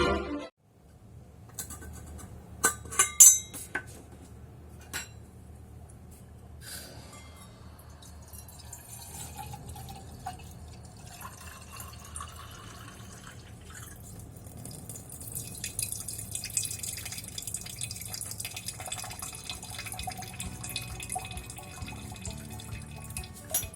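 A few sharp glass clinks about three seconds in, then a long stretch of water trickling and dripping that grows a little louder about halfway through.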